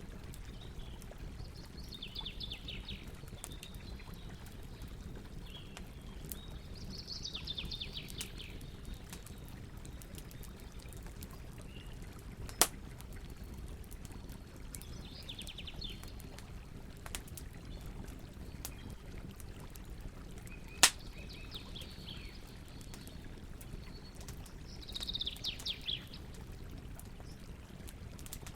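Campfire burning with a steady low rustle and a few sharp crackling pops, two of them loud, about halfway and two-thirds of the way through. A songbird repeats a short, fast trilled song every few seconds over it.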